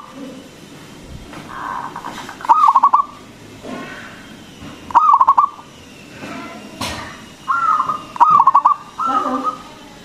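Zebra dove (local perkutut) cooing: short, loud, stuttering coo phrases repeated every couple of seconds, with three in quick succession near the end.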